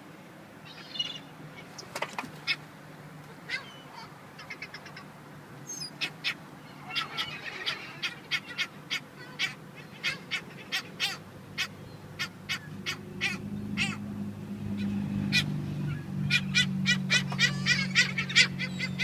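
Seagulls calling: a flock giving many short, sharp cries in quick runs, busier in the second half.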